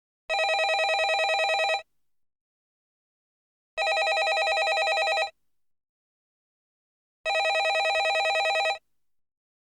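Landline telephone ringing: three rings of about a second and a half each, with a rapid fluttering trill, separated by about two seconds of silence.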